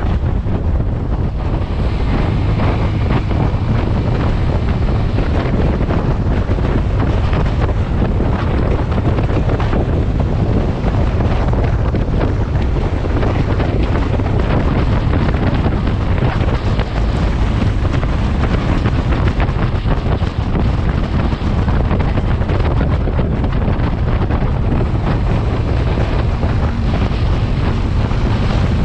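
Wind buffeting the microphone of a moving motorcycle, a loud, steady rumble throughout.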